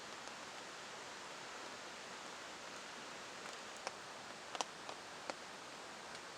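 Steady hiss of rain falling, with a handful of short sharp ticks clustered about four to five seconds in.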